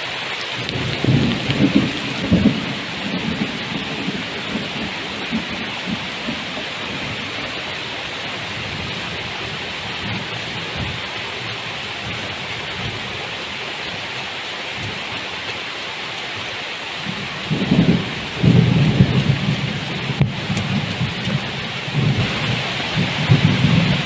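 Heavy tropical rain falling steadily, with low rolls of thunder rumbling about a second in and again through the last third.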